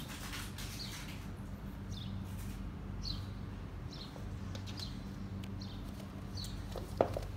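Small birds chirping, short high falling calls about once a second, over a steady low hum. Near the end there is one sharp knock.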